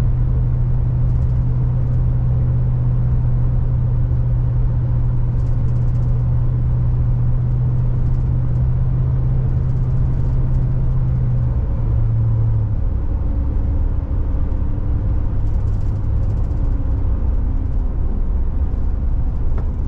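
Road and engine noise heard inside a moving car: a steady low drone over tyre rumble, the drone shifting and dropping away about twelve seconds in.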